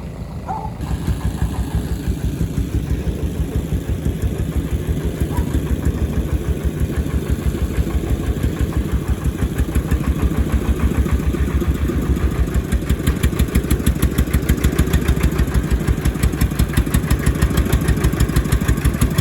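Excavator's diesel engine running hard, rising in level about a second in and then keeping up an even, fast pulsing beat that grows slowly louder.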